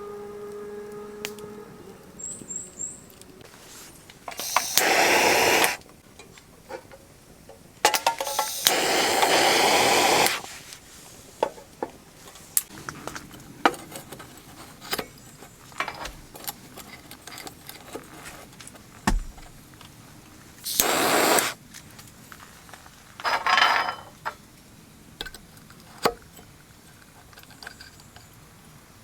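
Four short bursts of hissing, the longest about two seconds, with small clicks and knocks of camp gear being handled in between.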